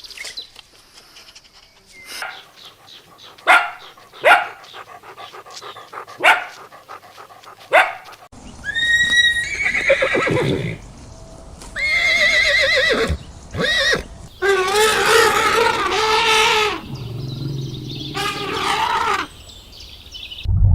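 Horse neighing about four times, long whinnies with a wavering pitch, after a few short sharp noises in the first seconds.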